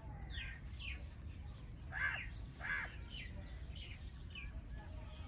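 Wild birds calling at a feeding spot: a run of short, falling chirps, with two loud, harsh calls about two and nearly three seconds in.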